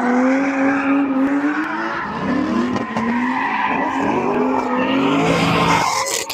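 Car engine revving hard, its pitch rising and falling, with tyres squealing and skidding: a car spinning donuts.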